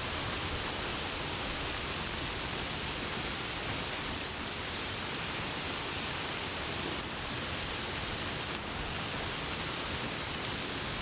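Steady rain falling, a continuous even hiss with no thunder.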